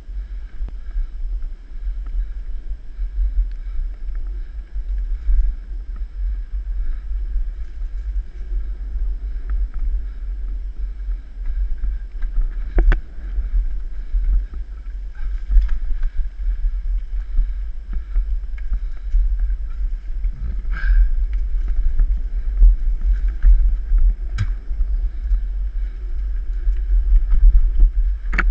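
Wind buffeting the microphone of a camera riding along on a moving mountain bike: a steady, loud low rumble, with a few sharp knocks now and then.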